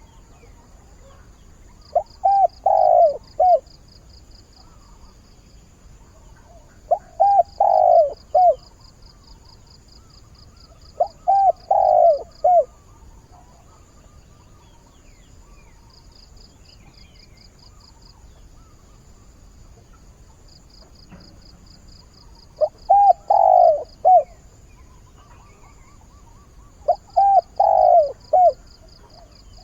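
Spotted dove cooing, each phrase a short run of several coos. Five phrases come about every four to five seconds, with a long pause in the middle. This is the calling for a mate. A fast, even high-pitched chirping runs behind it in stretches.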